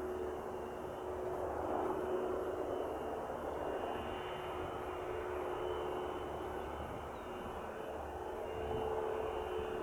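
Airplane engine running steadily: a continuous drone with a steady hum in it, swelling a little about two seconds in and again near the end.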